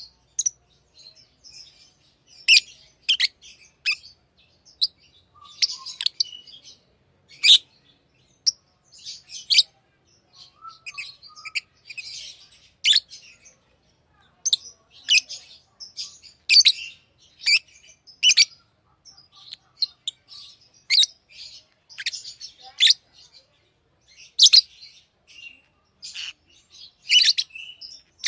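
Pet lovebirds chirping: sharp, high, short calls in irregular bursts, sometimes several in quick succession, with brief pauses between.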